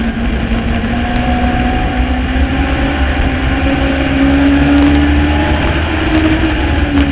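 Legends race car's Yamaha motorcycle engine running hard, its pitch climbing slowly and then dropping, twice, as the throttle comes on and off, over a heavy low rumble.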